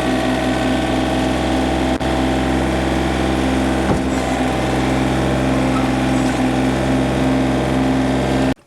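John Deere 955 compact tractor's three-cylinder diesel engine running steadily at a constant speed, cutting off suddenly near the end.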